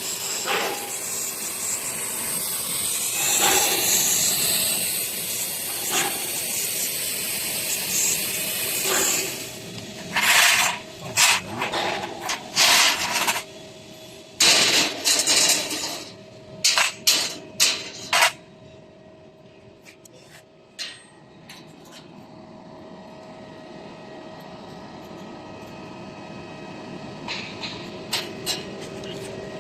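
CNC plasma cutting torch hissing steadily as it cuts, then firing in a string of short hissing bursts for several seconds before stopping, leaving the machine's steady hum.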